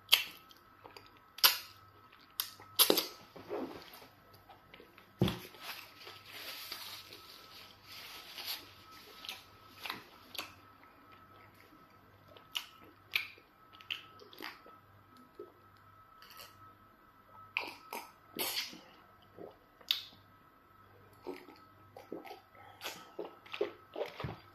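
Eating sounds of pounded yam fufu and soup taken by hand: chewing, lip smacks and finger licking, heard as irregular short wet clicks and smacks, a few of them much louder.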